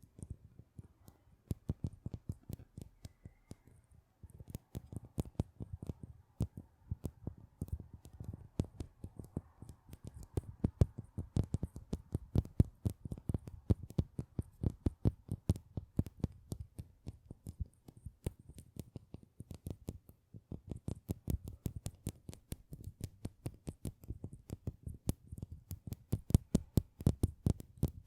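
Close-miked ASMR trigger sounds: a fast, irregular run of light clicks and taps, several a second. They are sparse at first and turn dense about four seconds in.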